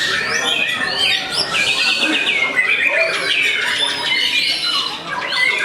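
White-rumped shamas singing loudly, several at once, in overlapping whistled phrases and fast repeated trills.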